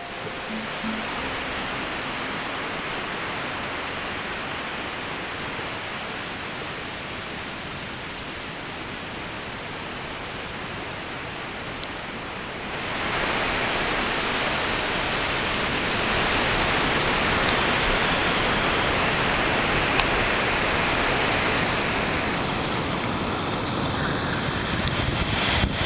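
Steady rushing, hissing water noise, picked up by a camera submerged in a clear lake. It gets louder and brighter about halfway through. Near the end comes the splash of a small waterfall pouring down into the pool.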